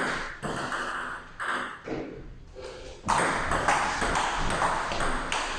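Table tennis ball clicking sharply off bats and the table, a string of quick pings. The clicks come sparsely at first, then in a faster, steadier run from about three seconds in, as in a rally.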